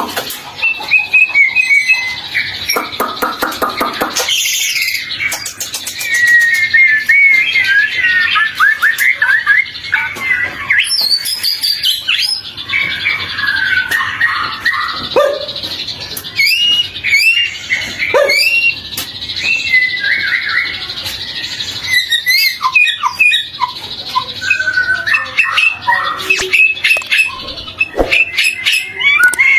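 White-rumped shama (murai batu) singing a long, varied song of loud whistled phrases and slurred notes, broken by rapid chattering rattles near the start and again toward the end.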